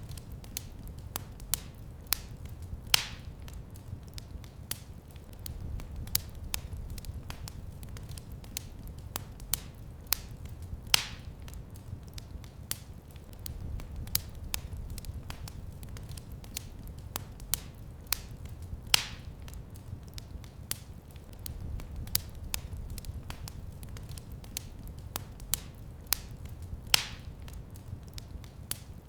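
Fire in a fireplace crackling, with many small irregular pops and a louder pop about every eight seconds, over a low rumble of the flames.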